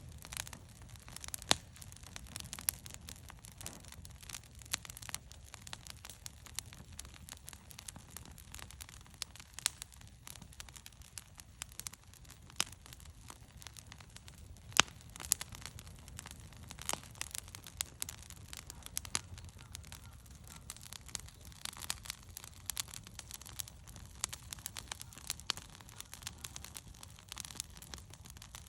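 Wood bonfire crackling, with sharp pops at irregular intervals over a low steady rumble.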